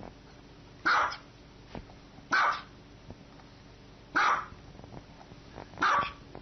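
A dog barking four times, single loud barks spaced about a second and a half apart.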